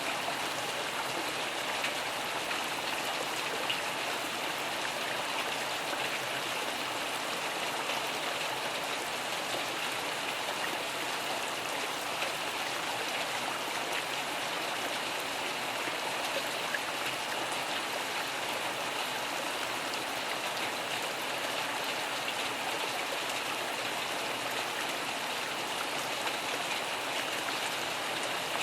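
Steady rain falling, an even hiss with the odd louder drop, without thunder.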